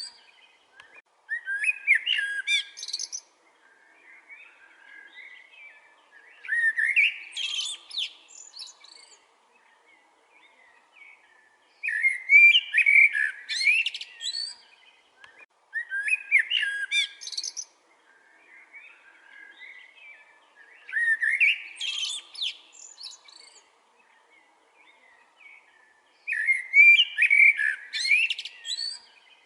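A songbird singing the same loud, warbling phrase about every five seconds, each phrase lasting a couple of seconds, with softer chirps in the gaps.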